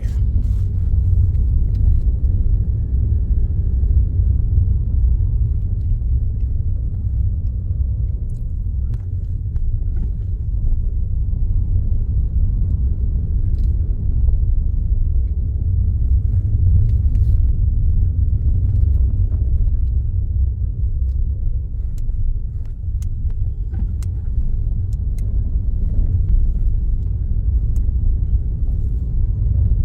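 Steady low rumble of a car being driven, heard from inside the cabin: engine and road noise, with a few faint clicks.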